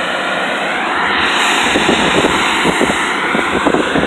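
Automatic car wash machinery running with a loud, steady rushing noise like a jet engine. It grows louder about a second in, with some low buffeting toward the end.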